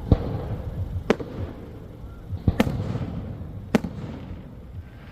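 Fireworks shells bursting overhead: four sharp bangs at irregular gaps of about a second or so, the loudest right at the start.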